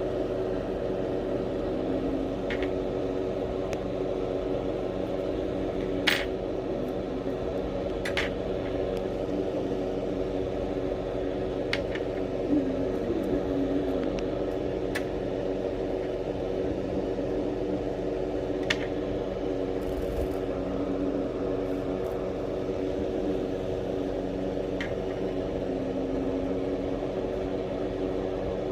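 Steady mechanical hum of a small motor or appliance, with a few short clicks scattered through it.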